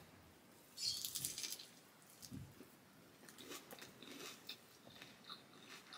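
Biting into and chewing a toasted egg breakfast sandwich: a crisp crunch about a second in, then faint chewing.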